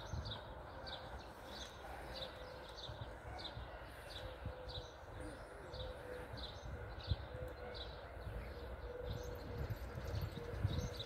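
A small bird calling short, high chirps about twice a second, over a low wind rumble on the microphone and a faint steady hum.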